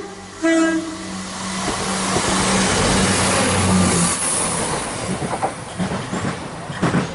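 Passenger train sounding a short horn blast about half a second in, then running through the station at speed, loudest around three to four seconds in, with wheels clicking over rail joints near the end as it passes.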